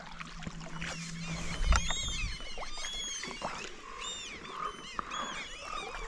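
Many birds calling over one another, short high arching calls repeated through the whole stretch, with a single low thump about a second and a half in.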